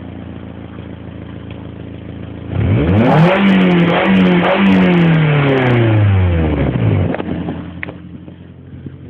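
Toyota ZRE152's 2ZR-FE four-cylinder engine and exhaust idling, then revved sharply about two and a half seconds in. The revs are held high for a few seconds and then sink back to idle about seven seconds in. The owner suspects a leak or hole somewhere along the exhaust.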